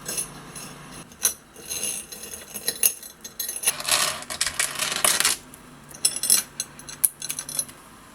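Small hard objects clicking and clinking as they are handled, with a busier stretch of clatter and rustle about four to five seconds in.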